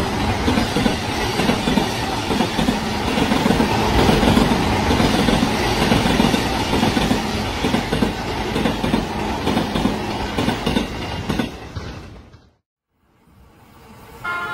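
Recorded sound of a real JR E233 series 2000 electric commuter train running, loud and steady. It fades out a little before the end, dropping briefly to near silence, then another sound starts rising in.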